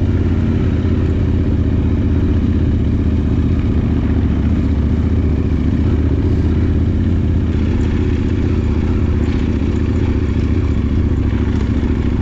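Adventure motorcycle engine running at a steady, even pitch while riding, with rumble and road or wind noise over it.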